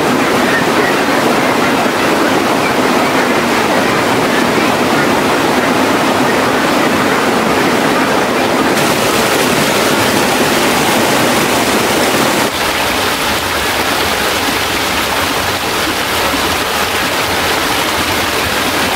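Steady, loud rushing of water at a stream waterfall, with no distinct events. The sound steps slightly quieter about twelve seconds in.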